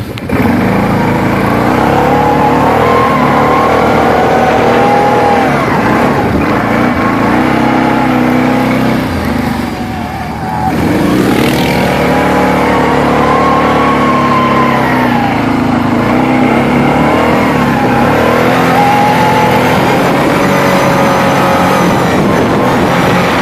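Quad (ATV) engine revving hard, its pitch climbing and falling over and over as the throttle is worked; it eases off briefly about ten seconds in, then climbs again.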